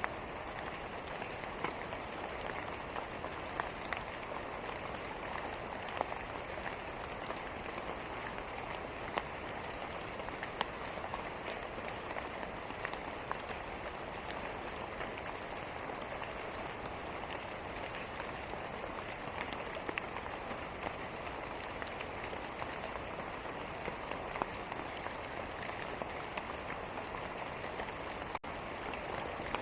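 Steady rain falling, an even hiss dotted with the ticks of individual drops striking a surface. It cuts out for an instant near the end.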